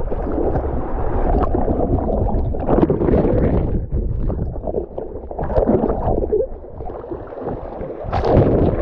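River water sloshing and gurgling close to the microphone, a continuous churning that rises and falls.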